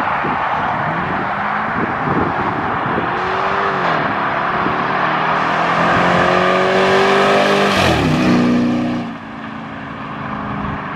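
Two Chrysler 300s with HEMI V8s racing side by side under hard acceleration, their engine note climbing in pitch with drops at the gear changes. About eight seconds in they pass close by, the pitch falls sharply, and the sound drops as they pull away.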